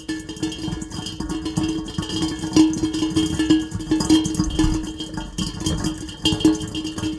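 Heavy rain falling as a dense spatter of drops striking a hard surface that rings with a steady pitch.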